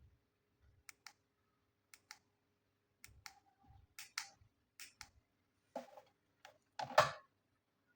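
Small miniature toy kitchen pieces clicking and tapping as they are handled: a string of light, irregular clicks, with the loudest cluster near the end.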